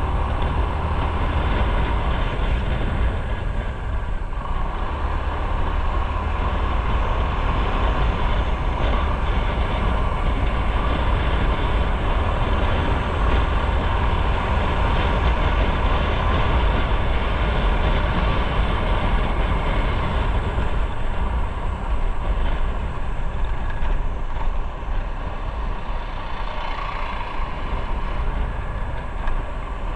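Motorcycle on the move: steady wind noise on the microphone over engine and road noise, heavy in the low rumble throughout.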